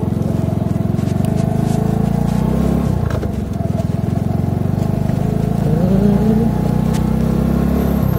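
Motorcycle engine running under way in third gear, its note dipping about three seconds in and climbing again a few seconds later.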